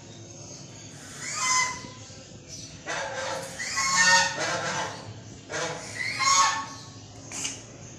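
A large bird calling loudly, four calls in a row, the longest lasting about a second and a half.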